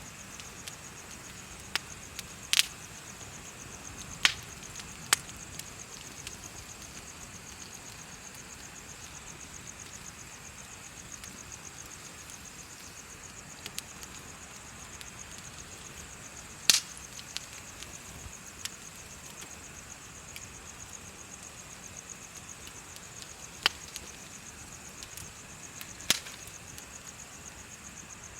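Bonfire crackling, with a handful of sharp pops of burning wood scattered through, the loudest about two-thirds of the way in, over a steady high chirring of insects.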